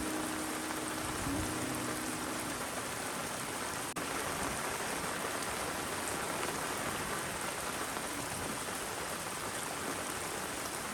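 Steady rain falling, an even hiss of drops on surfaces. A few short, low held notes sound in the first two seconds, and the sound briefly drops out about four seconds in.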